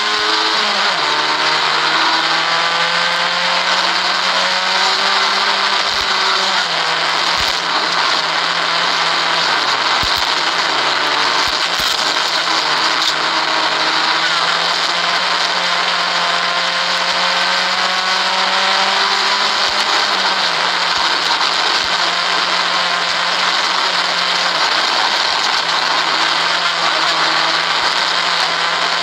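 Vauxhall Corsa 1200 rally car's four-cylinder engine running hard at a near-steady high pitch, heard inside the cabin, with the pitch dipping briefly a few times. A few sharp knocks come through in the middle.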